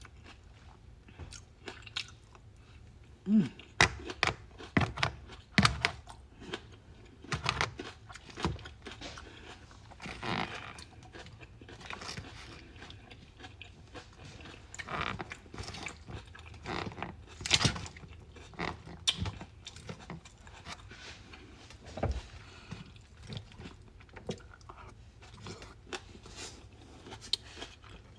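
Close-up chewing and crunching of a raw vegetable salad: irregular crisp crunches with bites and mouth sounds, loudest about three to six seconds in and again near the middle.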